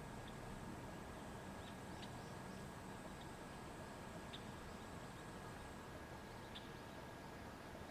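Faint outdoor ambience: a quiet steady hiss, with a few brief high chirps from a small animal every second or two and a thin high steady tone that fades out near the end.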